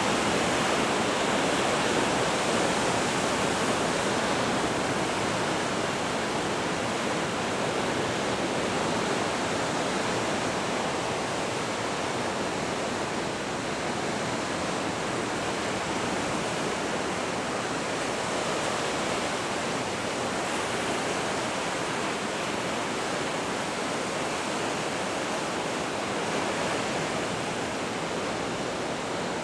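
Pacific Ocean surf: a steady wash of breaking waves, easing a little in level after the first several seconds.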